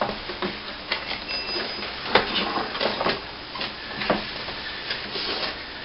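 A quadcopter's box and packaging being opened and handled by hand: a string of irregular clicks, taps and rustles.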